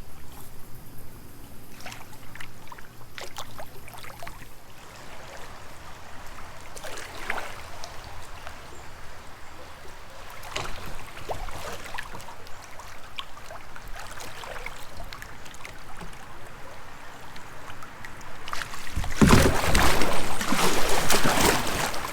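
Kayak paddle strokes dipping and splashing in creek water, with the rush of light rapids that grows much louder near the end.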